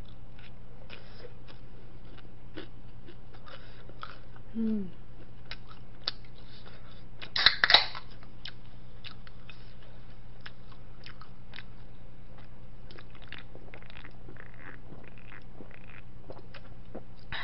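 Close-miked chewing and biting of fried snacks: soft crunches and small wet mouth clicks. About seven and a half seconds in, a drink can pops open with a short sharp crack and hiss.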